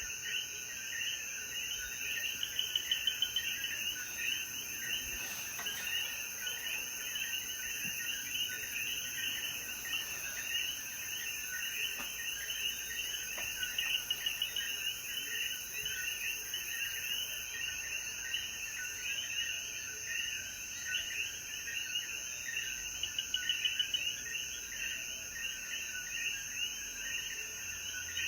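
Dense chorus of Puerto Rican coquí frogs, many short rising calls overlapping without pause, over a steady high insect drone. A nearer caller rings out louder in a quick series about three seconds in and again late on.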